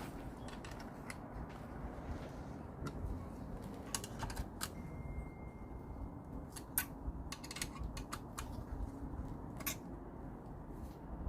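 Irregular small clicks and taps of hands working on small motorcycle headlight parts and clips, over a steady low background noise.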